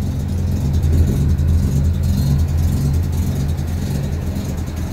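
Datsun 510's engine idling steadily as it warms up after being started.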